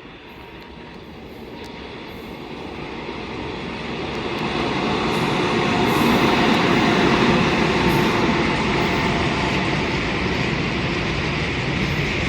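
Freight train approaching at speed and then running past close by. Its rumble grows steadily louder over the first five or six seconds, then holds as the steady rolling noise of the wagons going by.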